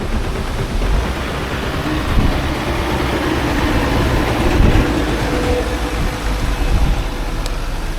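Vehicle on the move: a steady low rumble of engine and road noise with a rushing wash of wind over it.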